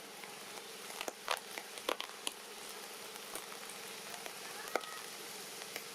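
Light rain falling steadily, with scattered sharp drips and taps of drops hitting nearby surfaces.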